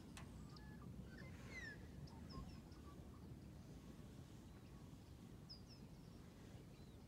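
Near silence: faint outdoor room tone with a low rumble and scattered short bird chirps.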